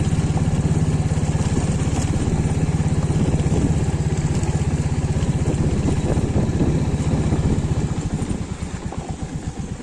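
Royal Enfield Hunter 350's single-cylinder engine running, an even low pulsing of its firing strokes. About eight seconds in, the engine eases off and gets quieter, its pulses slowing.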